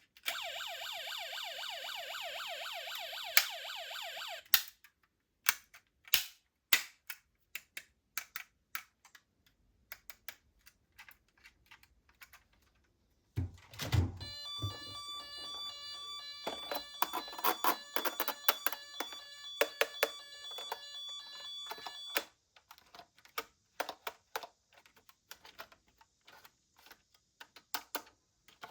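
Battery-powered toy police car's electronic siren warbling rapidly for about four seconds, then the clicks and clacks of small plastic toy cars being handled. About halfway through, a second toy's electronic siren sound plays in steady tones for about nine seconds, starting with a thump, followed by more clicking.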